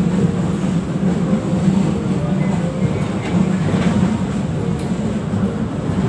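3rd-generation LRT-1 light rail car running on elevated track, heard from inside the cabin: a steady low rumble of wheels and drive with a few faint clicks from the rails.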